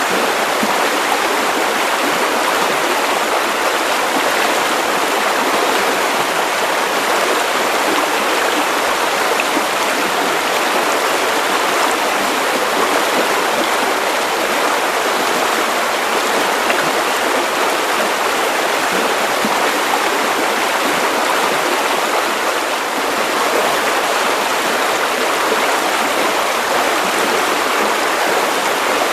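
Steady white noise: an even, unbroken hiss with little bass, unchanging throughout.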